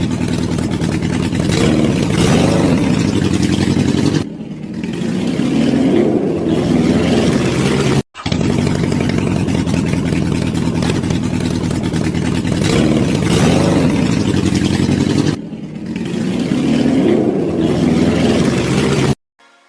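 Motorcycle engine running loud and revving, its pitch rising and falling, with a brief drop in throttle about four seconds in and again near fifteen seconds. The sound breaks off sharply for a moment about eight seconds in and cuts off suddenly just before the end.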